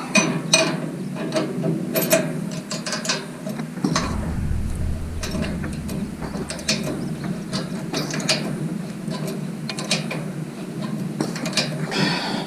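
Hand ratchet wrench clicking in short runs as nuts are tightened, over a steady low hum.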